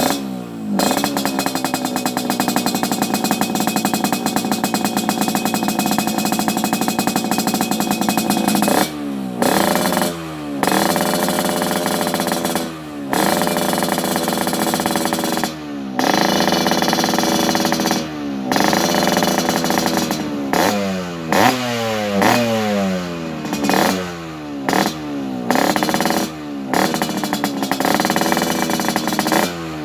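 Yamaha RX-King's two-stroke single-cylinder engine running through an aftermarket exhaust: held steady for about the first eight seconds, then revved in repeated throttle blips, each one climbing in pitch and falling back, coming quicker toward the end.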